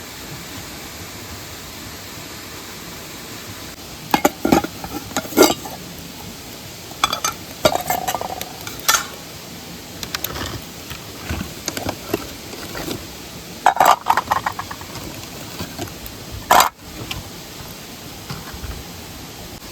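Metal cookware and utensils clinking and knocking in short irregular clusters, the loudest knock about three-quarters of the way through, over the steady rush of a waterfall.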